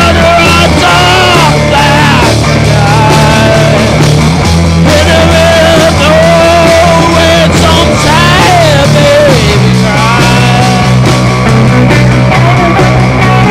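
Rock music playing loud: a full band mix with a melody line that slides up and down in pitch over a steady bass. The bass line shifts to a new pattern about two-thirds of the way through.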